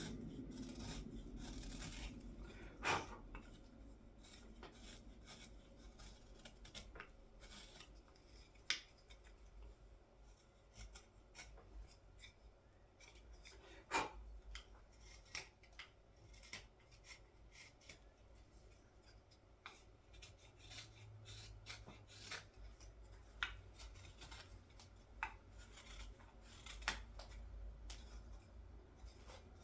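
Carving knife cutting shavings from a green-wood scoop: a run of short, quiet slicing and scraping strokes, with a few sharper clicks scattered through.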